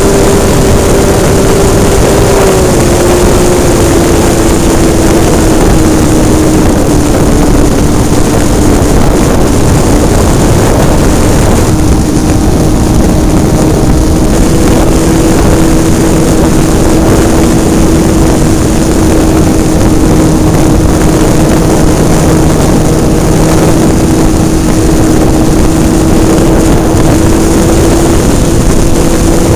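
Hobbistar 60 model airplane's engine running at high speed, heard up close from on board with wind rushing over the microphone. Its pitch drops a little over the first few seconds as the throttle comes back, then holds steady, with a slight rise near the end.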